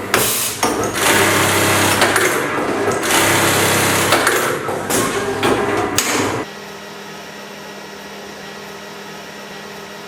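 Automatic lockstitch collar cut-and-sew machine running its cycle, with knocks and bursts of hissing, then stopping abruptly about six seconds in and leaving a steady low hum.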